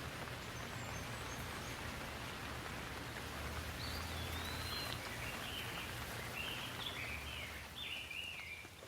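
Steady rain falling, with a low rumble underneath. About four seconds in, a bird begins calling in a run of short chirping phrases that carries on almost to the end.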